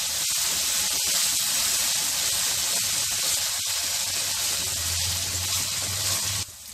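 Ginger-garlic and green chilli paste sizzling in hot oil in a kadai, stirred with a metal slotted spatula that gives light scrapes and ticks. It is being fried until its raw smell cooks off. The sizzle cuts off suddenly near the end.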